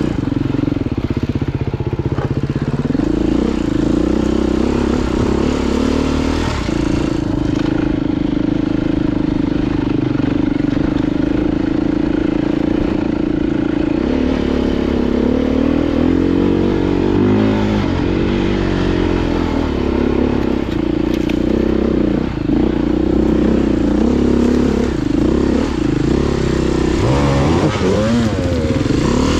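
Off-road motorcycle engine running while riding a trail. It holds a fairly steady pitch for several seconds, then from about halfway through the revs rise and fall again and again as the throttle is worked.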